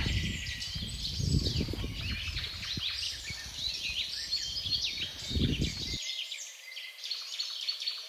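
Many birds chirping and calling in a dense chorus of short, quick notes, over a low rumbling noise that cuts off suddenly about six seconds in.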